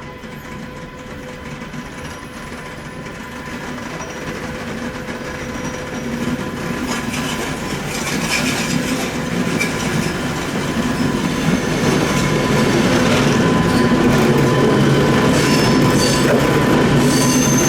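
A train approaching on curved track, growing steadily louder, its wheels clicking over the rail joints, with thin high-pitched flange squeal near the end.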